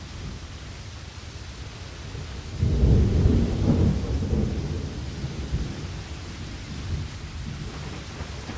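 Thunder rumbling over steady rain: a low roll of thunder breaks in suddenly near three seconds in, peaks over the next second and dies away slowly under the rain.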